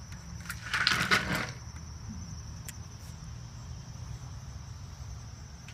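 Insects chirring in a steady, high-pitched drone, with a brief louder burst of sound about a second in.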